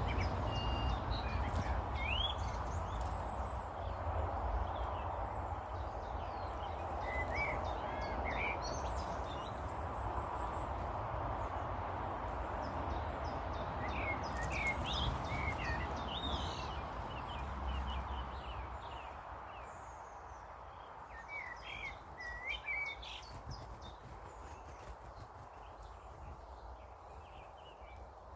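Small garden birds chirping and calling in short notes at intervals over a steady low background rumble. The rumble eases off about two-thirds of the way through.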